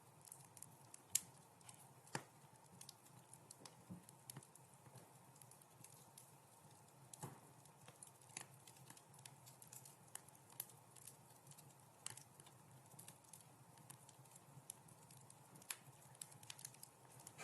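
Wood fire crackling in a fireplace: irregular sharp pops and snaps over a faint steady hiss, with the sharpest pop about a second in.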